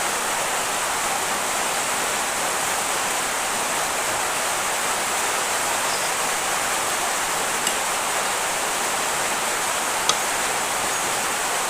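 Steady rain, an even hiss that does not let up, with a faint tick about ten seconds in.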